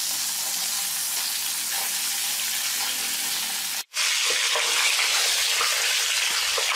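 Crab pieces dusted in cornstarch sizzling as they pan-fry in a little oil in a wok, stirred and turned with metal tongs. The sizzle cuts out for an instant a little past halfway, then carries on slightly louder with a few light clicks.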